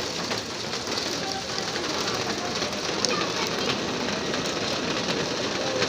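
Steady rain falling and splashing on surfaces: an even hiss with many small drop ticks scattered through it.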